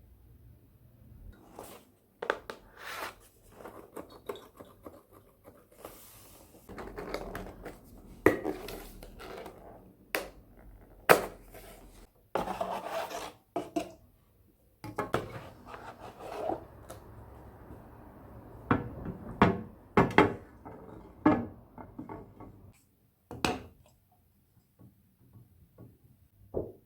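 Kitchenware being handled: irregular clinks and knocks of dishes and utensils, with stretches of scraping and rubbing in between.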